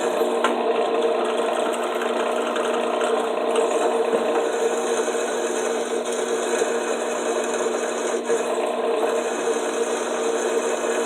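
Drill press running steadily while its bit cuts into quarter-inch steel flat bar, a constant motor whir with the scrape of the cut.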